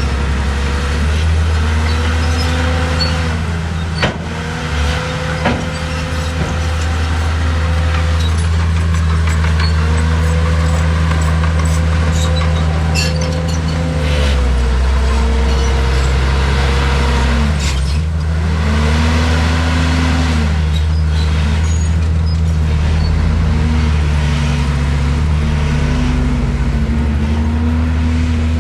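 Heavy diesel engine of earthmoving equipment running loud and steady, its pitch rising and falling again and again as the machine works under load. There are a few sharp knocks about four and five and a half seconds in.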